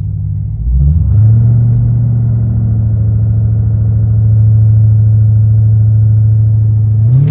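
Jeep Grand Cherokee Trackhawk's supercharged 6.2-litre Hellcat V8 idling, then about a second in coming up to steady, raised revs held for about six seconds while it waits to launch. Near the end the pitch starts climbing as the launch begins.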